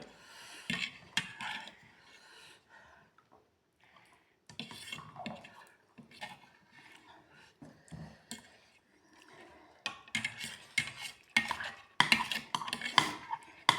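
Cutlery clinking and scraping against bowls during a meal of instant noodles, in scattered clicks that thicken into a quick run of clinks over the last few seconds.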